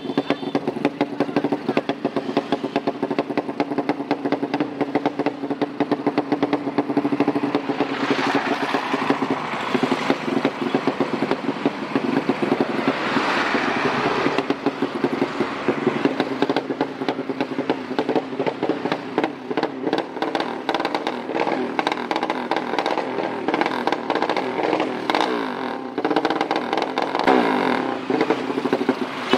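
Modified drag-racing motorcycle engine running with fast, rough firing pulses, revved up and down several times, with a rising rev near the end.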